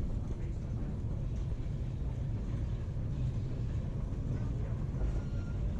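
Steady low rumble of a narrow-gauge passenger train under way, heard from on board, with no distinct clicks or whistles.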